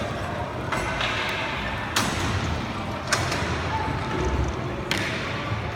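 Roller hockey play in a hall: four sharp knocks of sticks and puck striking, and of the puck hitting the rink boards, over a steady hall background noise.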